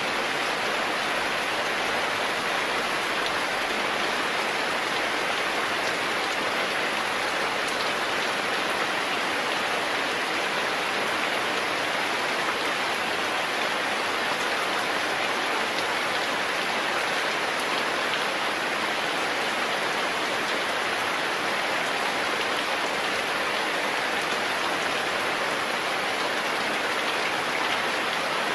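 Steady, even rain falling, a continuous hiss with no distinct drops, gusts or changes.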